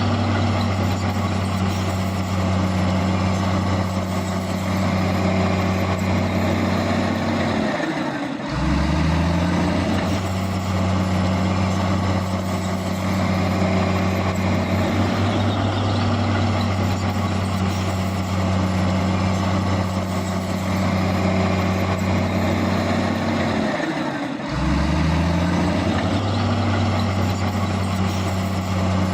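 Heavy diesel engine running steadily under load. Its note drops and then climbs back about eight seconds in, and again near the end.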